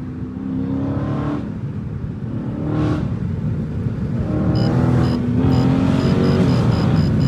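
Straight-piped Dodge Challenger Scat Pack's 6.4-litre HEMI V8 accelerating through the gears, its exhaust note climbing in pitch and dropping back at each shift. From about halfway through, a steady high-pitched ticking or beeping runs at about two a second.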